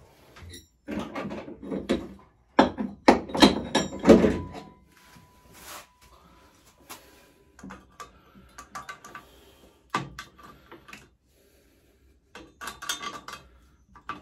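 Small metal parts clinking and knocking as steel washers are handled and lined up on a swingarm pivot bolt. A dense run of knocks comes in the first few seconds, then sparser clicks, and another cluster near the end.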